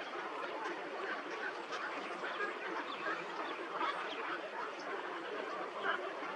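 A flock of birds calling all at once: a continuous, dense chatter of many short overlapping calls.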